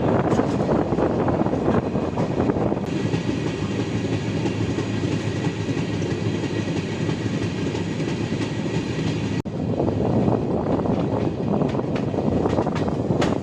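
Passenger train running at speed: steady rail and wheel noise with a clickety-clack of wheels over the rail joints. The noise changes abruptly twice, about three seconds in and again near nine and a half seconds.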